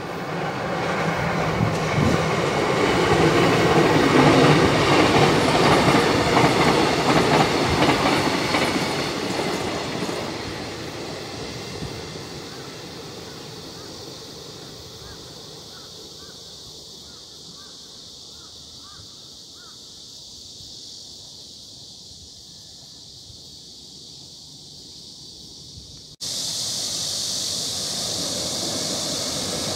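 A train passing on the line: its rumble swells to its loudest a few seconds in and fades away over about ten seconds, leaving faint chirps. Near the end, after a sudden cut, comes the steady rumble of a passenger train hauled by an electric locomotive, coming out of a tunnel.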